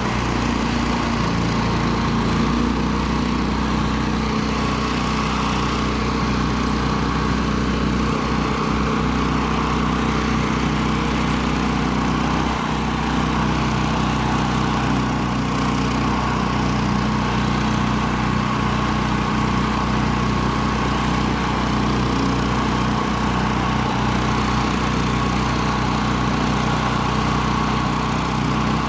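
Engine of a homemade karakat snow vehicle running steadily as it drives through deep snow, its pitch and level holding even throughout.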